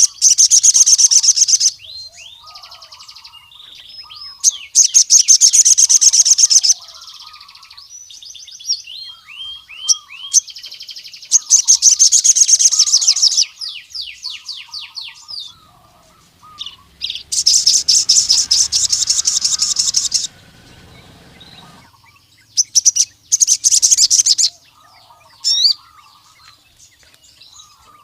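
Male ruby-cheeked sunbird (sogon) singing a full, busy song: five loud bursts of very fast, high trilling, each one to three seconds long. Between the bursts come softer repeated chirps and short sweeping notes.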